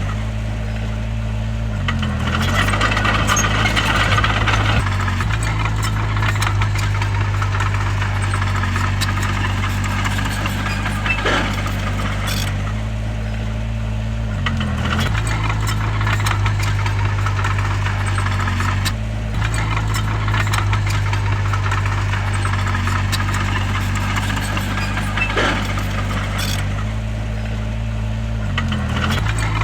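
Bulldozer's diesel engine running steadily, its note dipping briefly about three times, with metallic rattling and clanking over it.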